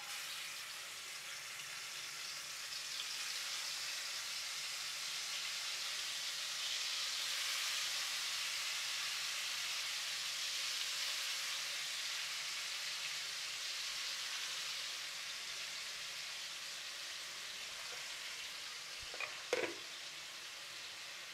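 Marinated chicken pieces sizzling as they go into hot oil in a wide pan: the sizzle starts suddenly, swells over the first several seconds and then eases off a little. A couple of short knocks near the end.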